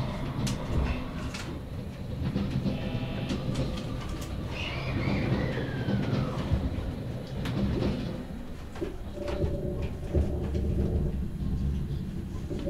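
Electric commuter train running, heard from inside the passenger car: a steady low rumble with sharp clicks of wheels over rail joints. An electric motor whine falls in pitch about five seconds in.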